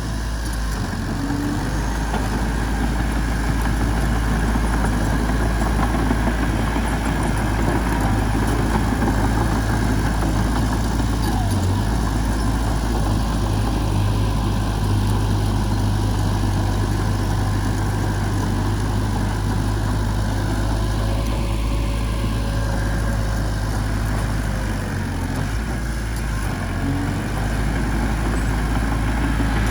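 Heavy diesel machinery engine running steadily, with a continuous low-pitched drone.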